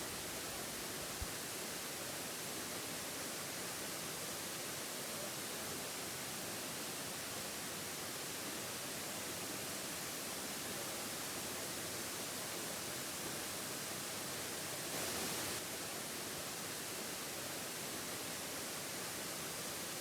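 Waterfall's steady rushing water noise, with a slightly louder stretch of under a second about fifteen seconds in.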